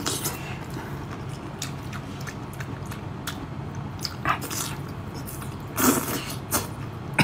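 Close-up eating sounds of a person chewing wide, chili-coated noodles: soft wet smacks and clicks from the mouth, with a louder burst about six seconds in.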